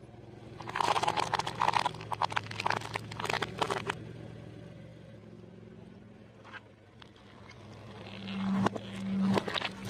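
A car engine running low and steady while food crunches and crackles under the tyre in two bursts, a long one in the first half and a shorter one near the end.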